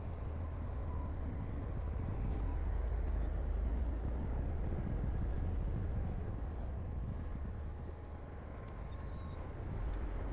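Heavy diesel earthmoving machine's engine running with a steady low rumble, easing off a little about eight seconds in and picking up again near the end.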